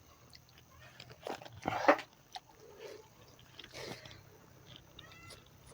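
Close-up eating sounds of pork leg being chewed and bitten, with scattered small clicks and two louder bursts, the loudest about two seconds in and another near four seconds.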